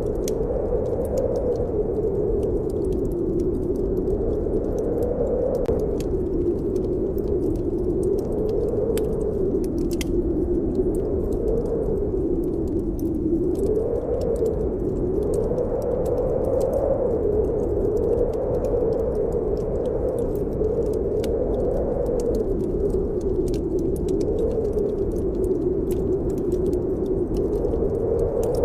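Snowstorm wind howling, its pitch slowly rising and falling, over a steady low rumble, with sparse faint crackles of a wood fire.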